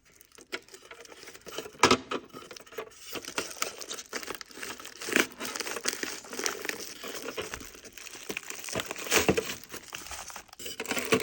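Packaging crinkling and rustling as small parts are worked out of an espresso machine's water tank, with sharper crackles about 2, 5 and 9 seconds in.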